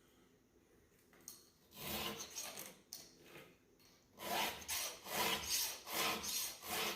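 A hand file sharpening a chainsaw chain, its strokes rasping across the cutters. A few slow strokes come first, then from about halfway a steady run of two to three strokes a second.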